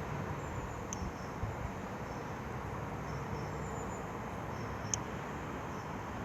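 Steady outdoor background noise, a low rumble with a hiss over it, broken by a few faint short clicks about a second in and near five seconds.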